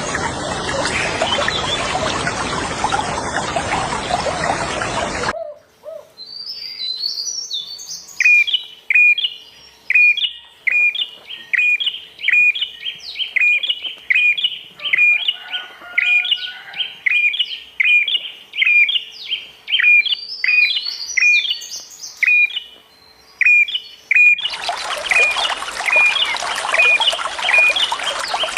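Running water rushing, then cutting off suddenly about five seconds in, leaving a bird repeating a short chirp about twice a second with higher twittering around it. Near the end the water noise cuts back in under the chirping.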